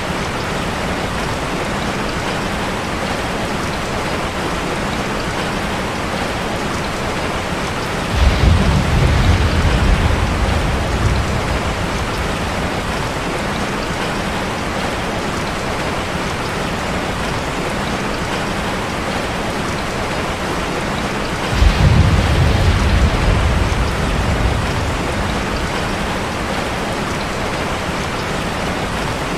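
Steady rain falling on a metal roof. Two rolls of thunder break in, about eight seconds in and again about twenty-one seconds in, each starting suddenly and dying away over a few seconds.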